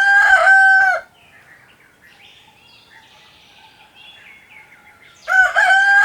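Rooster crowing cock-a-doodle-doo: one crow ends about a second in and another starts near the end, each finishing on a long held note, with a quiet stretch between.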